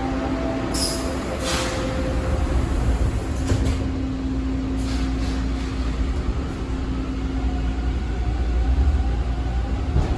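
TTC T1 subway car at a station. The door chime's descending tones end in the first seconds, with two sharp hissing strokes as the doors close. After a steady hum, a rising motor whine begins near the end as the train starts to pull away.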